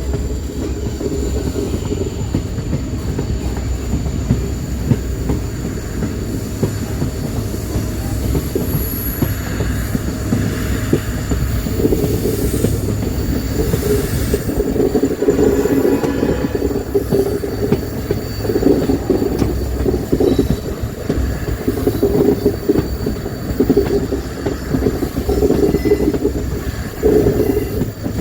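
Train running along the track: a steady rumble of wheels on rail, with a wavering squeal from the wheels that grows stronger partway through.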